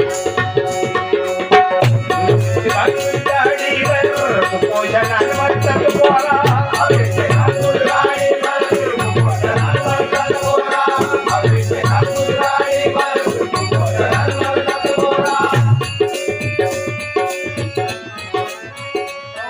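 Traditional bhajan accompaniment: a hand drum beating a steady rhythm under a held harmonium-like drone and melody, with jangling hand cymbals or rattles on every stroke. It eases slightly in the last few seconds.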